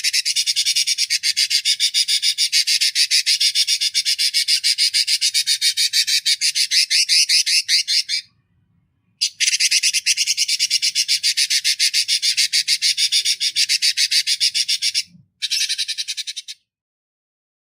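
Recorded songbird giving a harsh, high-pitched rattling call of about ten rapid pulses a second, the coarse 'kasaran' sound used to train cage birds. It breaks off about eight seconds in, resumes a second later, and stops after a last short burst near the end.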